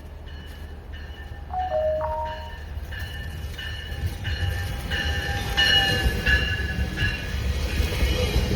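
GO Transit commuter train pulling into the station: a low rumble builds as it arrives, under a bell ringing steadily about one and a half strikes a second and growing louder.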